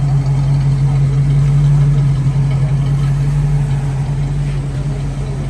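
Car engine idling steadily: an even low hum with no revving.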